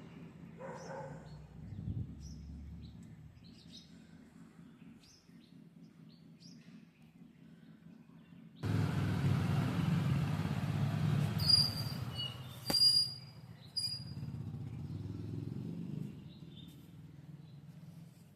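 Small birds chirping in short, scattered calls over a low steady rumble. About nine seconds in, a louder rushing noise starts suddenly and lasts about seven seconds; a few sharp, clear bird calls and a single knock stand out within it.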